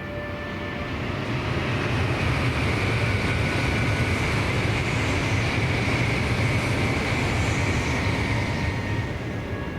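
Shinkansen bullet train passing by, its rushing noise swelling over a couple of seconds, holding loud, then fading away near the end.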